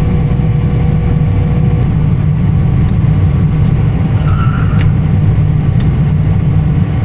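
A vehicle running steadily with a low, even rumble, with a faint steady whine for the first couple of seconds.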